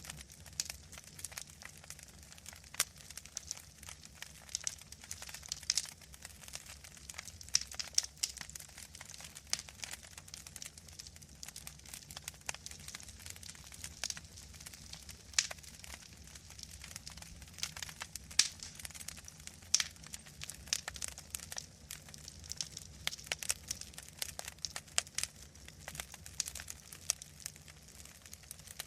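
Wood fire crackling in a fireplace, with irregular sharp pops and snaps, several of them loud, over a low steady hum.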